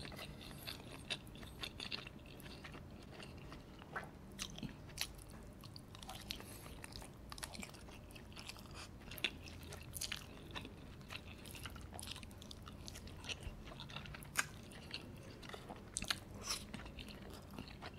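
Close-miked chewing and biting of soft dumplings covered in melted mozzarella and spicy sauce, with irregular wet mouth clicks and smacks throughout.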